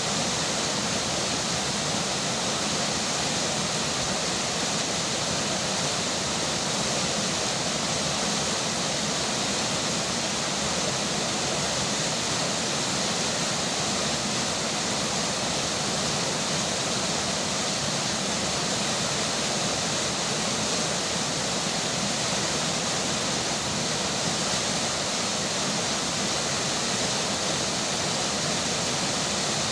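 A river flowing with rain falling, a steady even rush of water that does not change.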